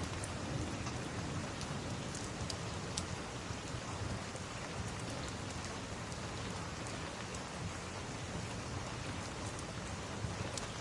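Steady rain falling, with scattered sharp ticks of drops. A low rumble of thunder dies away in the first second or so.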